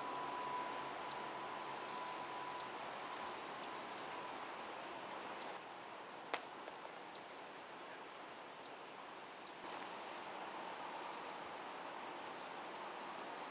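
Outdoor ambience: a steady hiss of background noise with short, high bird chirps scattered throughout and one sharp click about six seconds in.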